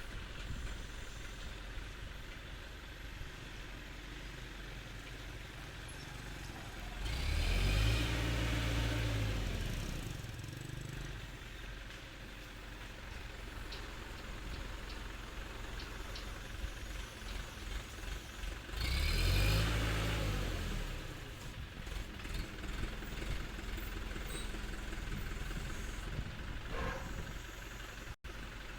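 Heavy engine idling steadily, revved up and back down twice, each rev lasting about two to three seconds.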